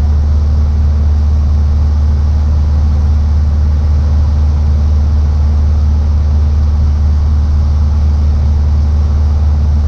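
Cessna 150's four-cylinder Continental O-200 engine idling steadily in the cockpit while the aircraft holds short on the ground: a constant low drone with no change in pitch.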